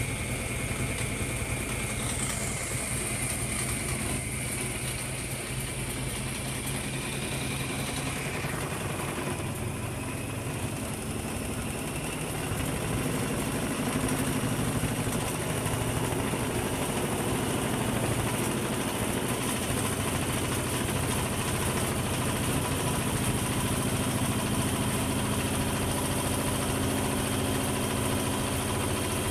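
Hoover Logic washing machine's drum motor running steadily, a continuous hum with a high whine that fades out about eight seconds in; the machine gets louder about twelve seconds in.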